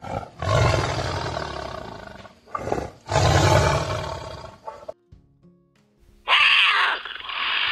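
Big cat roaring loudly twice, each roar about two seconds long. Near the end comes a harsh hissing snarl, with faint background music.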